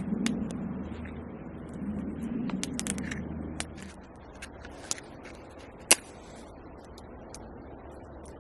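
Campfire crackling, with irregular sharp pops and one loud pop about six seconds in. A low rumble underneath fades out about four seconds in.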